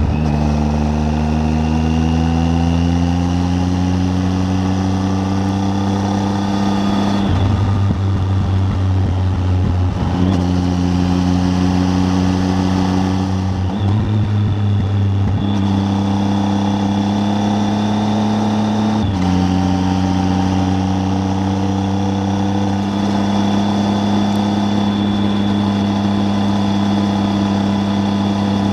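Triumph Tiger 800's three-cylinder engine on the move, rising in pitch as it accelerates for the first several seconds, then dipping briefly at a few gear changes and holding a steady note between them.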